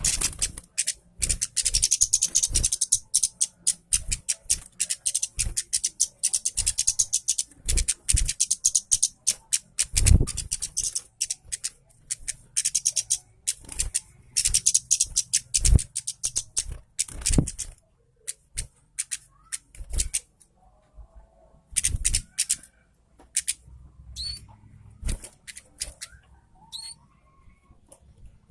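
Kemade (orange-headed thrush) singing a rapid, high-pitched, chattering song, dense and almost unbroken at first, then in shorter phrases with pauses in the last third, with occasional low thumps mixed in.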